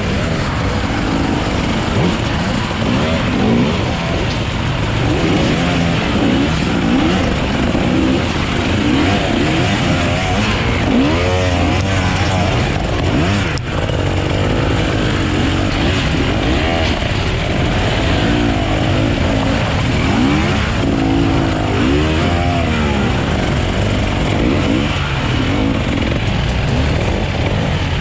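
Off-road motorcycle engines revving, their pitch rising and falling over and over as the throttle is opened and closed.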